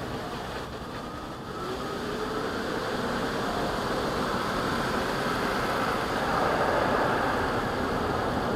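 Car wash machinery running: a steady rushing noise with a faint gliding whine, growing louder about two seconds in.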